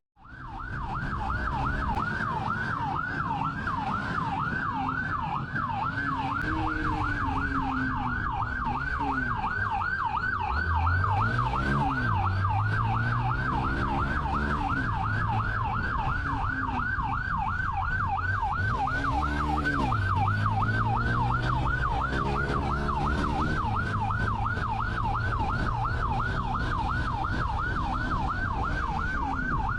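Police car siren in fast yelp mode, a quick rising-and-falling wail repeating about three times a second without a break. Underneath, a vehicle engine revs up and down.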